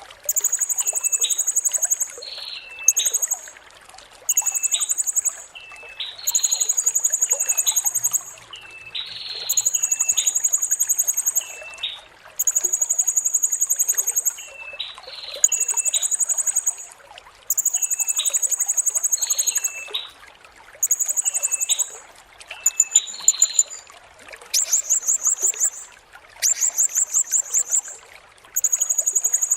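Blue-crowned hanging parrot (serindit) calling: a series of very high, thin notes, each about a second long and repeated every couple of seconds, with short lower chirps in between. Near the end the notes break into quicker, rattling trills.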